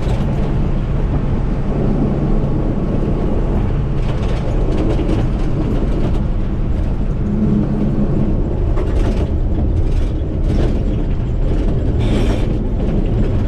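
A combine harvester running, with a steady engine drone and rattling machinery, and clicks and knocks that come more often in the later seconds.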